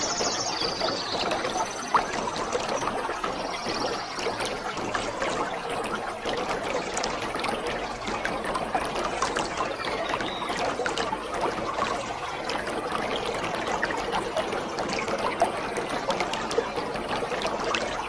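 Waterfall: water falling and splashing steadily, an even rush of noise dotted with small splashes throughout.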